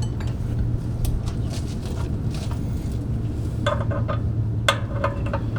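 Small metal pieces clinking against each other with a short ringing, a few quick clinks past the middle and one sharper one near the end, over a steady low hum.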